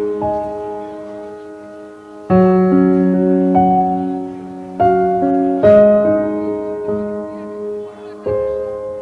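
Background piano music: slow sustained chords struck every few seconds, each ringing out and fading.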